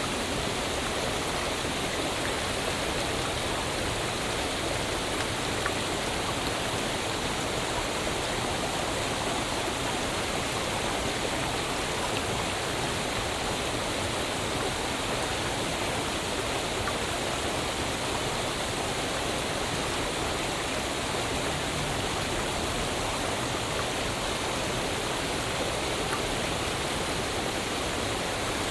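Waterfall: water falling and rushing in a steady, unbroken roar of even noise.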